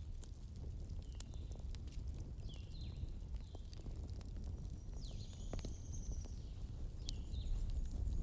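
Campfire crackling with scattered sharp pops over a steady low rumble, while small birds give short chirps every second or so, with one longer high call about halfway through.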